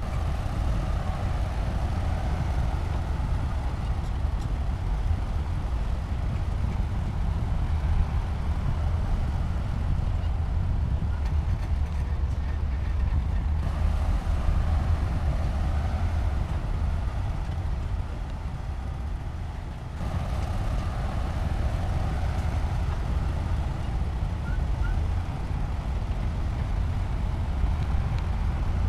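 Bulldozer's heavy diesel engine running steadily with a low rumble. The sound changes abruptly about 14 and 20 seconds in.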